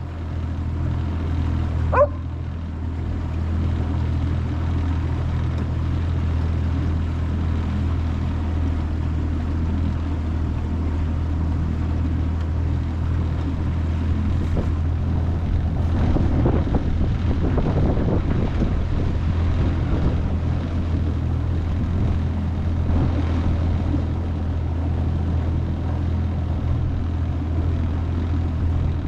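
25 hp Mercury four-stroke outboard motor running steadily under way, a continuous low drone. A single short knock about two seconds in.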